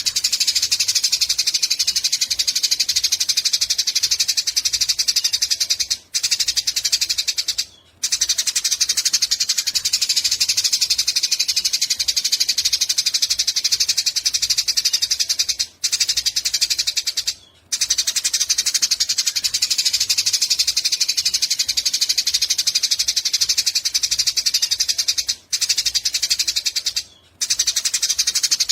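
Eurasian tree sparrow giving a long, unbroken, very rapid high-pitched chattering call, the 'nyecret panjang' used as a training recording for cage birds. It breaks off for a split second six times, in pairs about every ten seconds.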